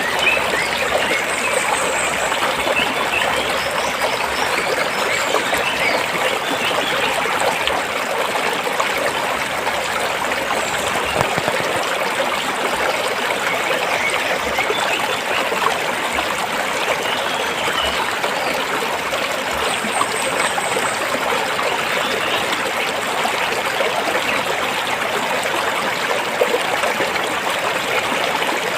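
Stream water flowing and trickling over rocks: a steady, even babble with no pauses.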